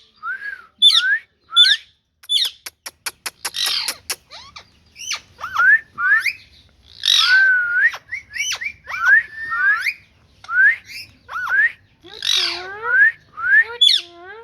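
Green ringneck parrot (rose-ringed parakeet) calling over and over: short squawks and chirps, many with quick rising or falling whistled glides. A fast run of sharp clicks comes about two to four seconds in.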